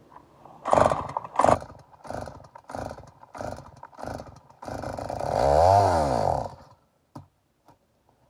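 Stihl MS 290 two-stroke chainsaw being pull-started: about six quick rope pulls, then the engine catches for about two seconds, its pitch rising and falling, and dies. The saw won't start, and the owner suspects it may be flooded.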